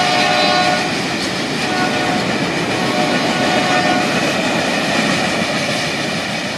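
Norfolk Southern freight train of boxcars and covered hoppers rolling past at speed: a steady loud rumble and clatter of steel wheels on rail, with thin high tones coming and going.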